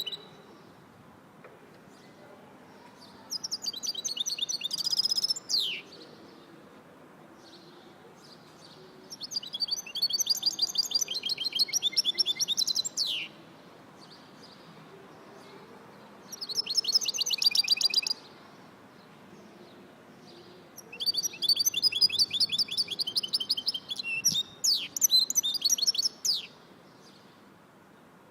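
A songbird singing in four bouts of rapid, trilled high notes, each lasting two to five seconds, with a few seconds' pause between them; the first bout ends in a quick downward-sliding note.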